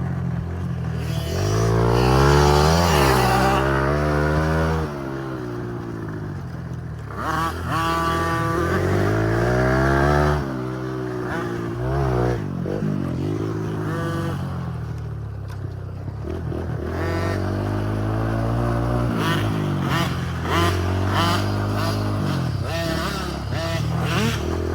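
Husqvarna TC50 50cc two-stroke dirt bike engine ridden around a track, revving up and dropping back again and again as the rider opens and closes the throttle through the turns. It is loudest about two to four seconds in and again around ten seconds. The bike is running on its freshly fitted 90 main jet.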